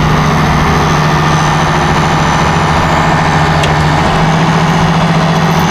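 A tractor engine running steadily at a constant idle-like speed, with no revving or change in pitch.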